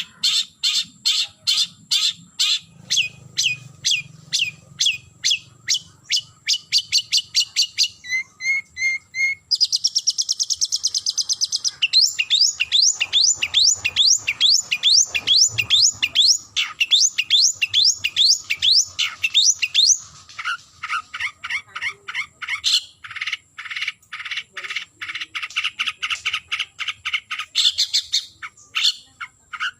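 Long-tailed shrike (cendet) calling a rival, giving loud, sharp notes repeated about three to four a second. A short fast buzzy trill comes about ten seconds in, followed by a long run of quick rising notes.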